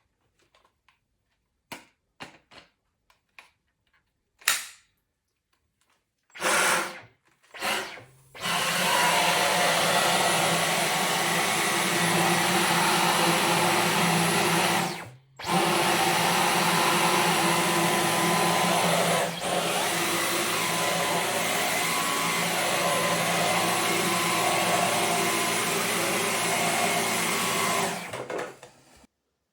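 Dyson V15 Detect cordless stick vacuum switched on in two brief bursts, then running steadily for about twenty seconds. It stops for about a second midway, runs again, and shuts off near the end. Before it starts there are a few sharp clicks.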